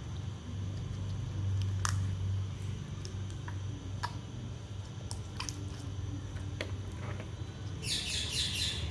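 Sticky, under-activated slime being worked by hand, giving scattered small wet clicks and a quick burst of crackling near the end, over a steady low hum.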